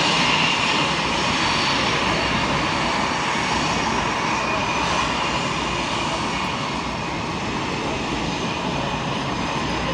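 Fixed-wing aircraft engine noise, a steady wide rush that slowly fades as the aircraft draws away.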